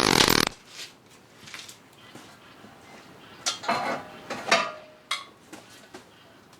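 A loud warbling sound cuts off about half a second in. After it come faint, scattered clicks and a few short clinks and clatters of hard objects being handled, loudest a little past the middle.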